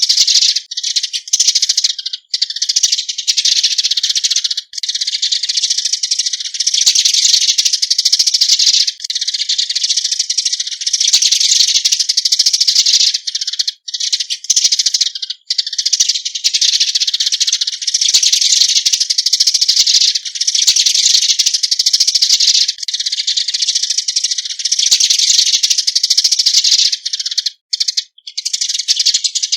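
Eurasian tree sparrows calling in a dense, rapid chirping chatter, the flock-gathering call, broken by a few brief pauses.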